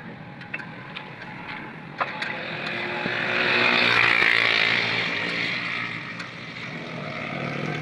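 A motor vehicle passes by, its sound swelling to a peak about four seconds in and then fading away. A few light metallic clicks, like tools on metal, come in the first two seconds.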